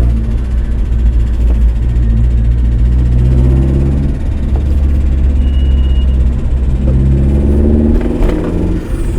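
Vauxhall Astra's 1.4-litre eight-valve C14SE engine running, its note rising and falling a few times, with a rise about eight seconds in. The engine has noisy hydraulic lifters.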